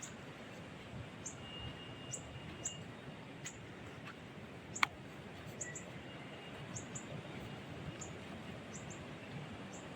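Small birds chirping: short, high chirps repeating irregularly over a steady low background hiss, with one sharp click about halfway through.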